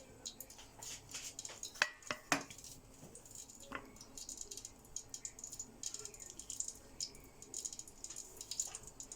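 Quiet kitchen handling sounds: a few sharp clicks and knocks of kitchenware, the strongest about two seconds in, with light crinkly rustling as a tortilla wrap is got out for filling.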